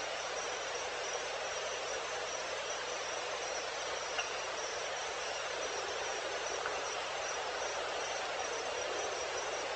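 Evening insect chorus: a steady hiss of crickets and other insects, with a faint, evenly pulsing high chirp running through it. A single faint click about four seconds in.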